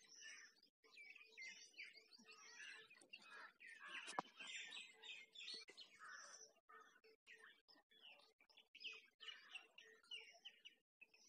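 Faint chorus of small birds chirping and twittering, with many overlapping short calls. A single sharp click about four seconds in.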